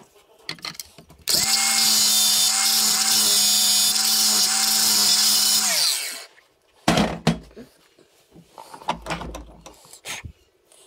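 An electric power tool motor starts, runs at a steady speed for about four and a half seconds with a high whine, then winds down; a few sharp knocks and clinks of handled parts follow.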